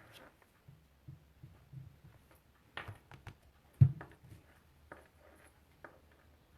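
Rubber stamp being pressed down onto paper on a tabletop: a few scattered soft knocks and clicks, the heaviest a low thump about four seconds in.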